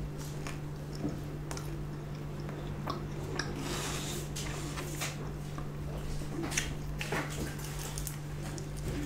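Close-miked eating of a chicken-nugget shawarma: chewing, wet mouth sounds and small clicks of the lips. About four seconds in comes a short rustle as a piece of the flatbread wrap is torn off. A steady low hum runs underneath.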